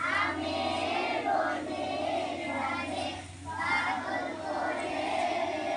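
A group of young schoolchildren singing together in unison, in phrases about a second long.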